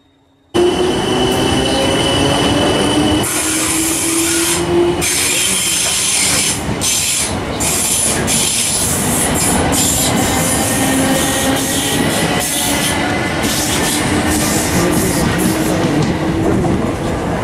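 Electric multiple-unit passenger trains running through a station. Wheels rumble and clatter over the rail joints, with a whine that rises in pitch and a high, steady wheel squeal. It starts suddenly about half a second in.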